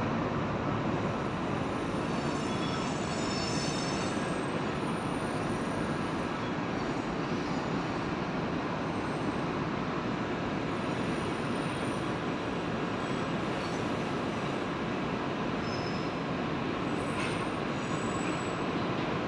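Kintetsu electric train running on the rails, a steady rumble of wheels and running gear with faint high-pitched wheel squeals coming and going several times.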